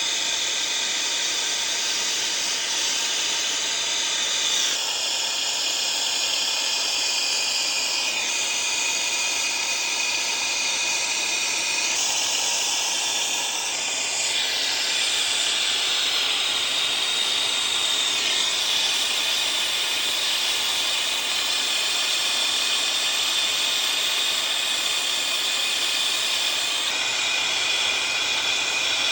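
Brazing torch flame hissing steadily while copper refrigerant line-set joints are brazed, with a high whistling note running through it that shifts pitch a few times.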